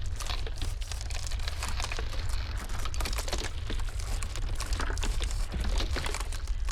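Iceberg ice crackling and snapping in dense, irregular clicks over a steady low rumble of blizzard wind.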